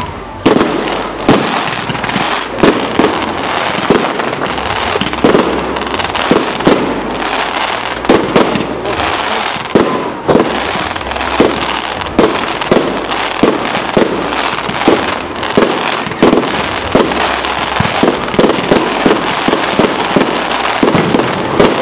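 Firework display: a steady barrage of aerial shell bursts, about one to two bangs a second, over a constant crackle and hiss.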